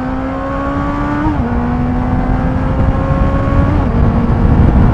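Motorcycle engine accelerating, its pitch climbing steadily and dropping at two upshifts, about a second in and again near four seconds in. A low rush of wind on the microphone grows louder as speed builds.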